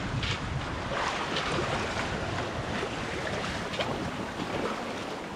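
Sea water rushing and washing along the hull of a sailboat under sail, with a few louder splashes, and wind buffeting the microphone.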